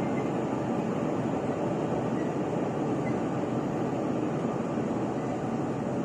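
Steady running noise inside a moving Chu-Kuang Express passenger car: an even rumble and hiss from the train travelling along the line.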